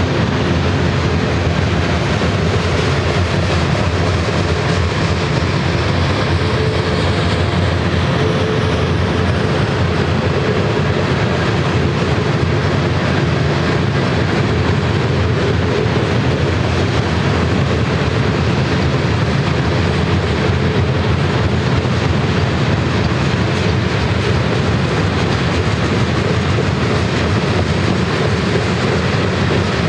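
Freight cars of a Union Pacific manifest train rolling past: a steady, loud rumble of steel wheels on the rails.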